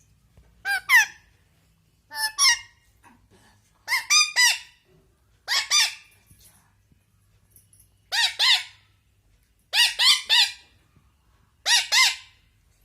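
Indian ringneck parrot giving harsh, loud squawks in seven bursts of two or three calls, about one burst every one and a half to two seconds. The owner takes it for angry scolding.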